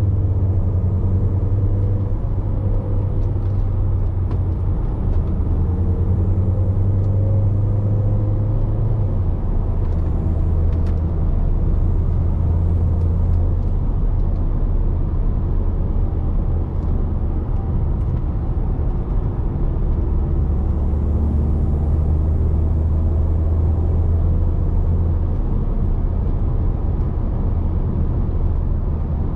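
Range Rover Evoque's 2.0-litre turbocharged petrol four-cylinder engine and tyre and road rumble, heard from inside the cabin while driving. The engine drone is steady, dropping in pitch about nine seconds in and again near the end.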